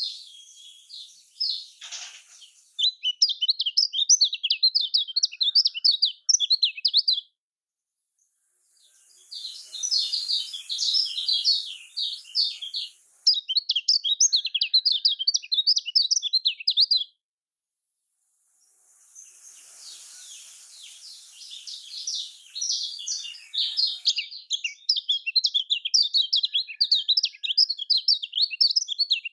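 Kecial kuning (yellow white-eye) singing a rapid, busy chattering song in long runs of several seconds, broken twice by short silences.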